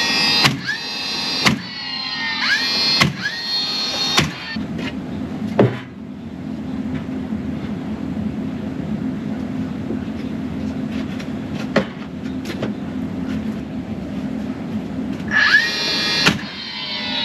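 Battery-powered nail gun spinning up with a rising whine and firing nails into cabinet-grade plywood face frames, a sharp crack after each whine: about four shots in the first few seconds and two more near the end, with a steady low hum in between.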